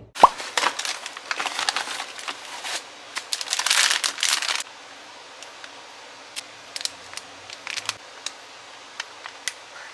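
Crinkling, handling noise with sharp clicks for about four and a half seconds, then a few scattered light clicks and taps.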